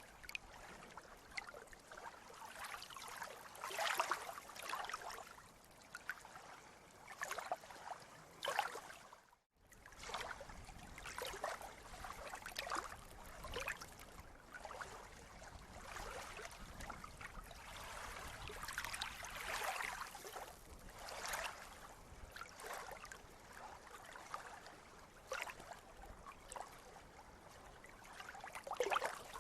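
Sea waves lapping and splashing in irregular surges, each a wash of water noise rising and falling every second or two. About nine and a half seconds in, the sound cuts out to silence for an instant, then resumes.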